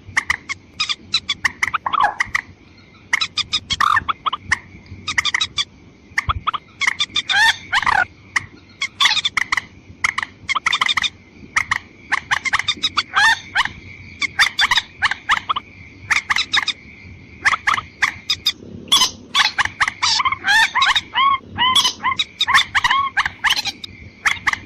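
Lure-call recording of watercocks (mandar ayam-ayaman), female and male: clusters of quick, sharp clucking call notes every second or two, over a steady high whine.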